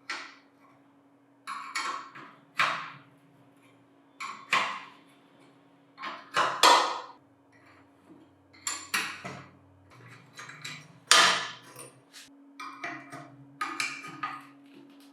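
Irregular metallic knocks, clanks and short scrapes, like metal parts and tools being handled and struck on a workbench, about a dozen in all, some ringing briefly. A faint steady hum lies underneath.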